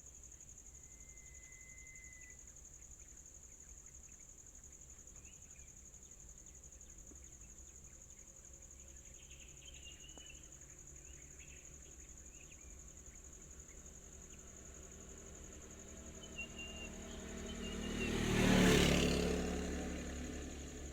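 A motor vehicle approaches and passes: its engine grows loud about two-thirds of the way in, peaks near the end, then fades. Under it a steady high insect drone and a few short bird chirps.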